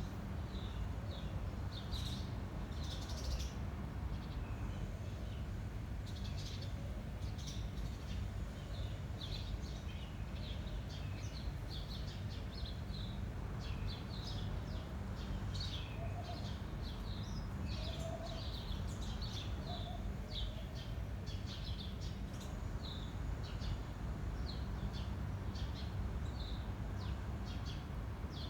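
Small birds chirping and twittering in quick, irregular short notes over a steady low rumble of wind.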